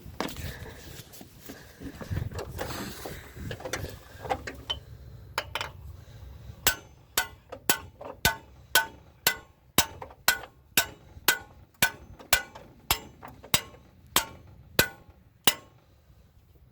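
Hammer tapping on metal engine parts, a steady run of sharp ringing blows about two a second starting some seven seconds in, after a few seconds of scattered tool and parts clatter. It follows a bolt found stuck, which the blows are likely meant to free.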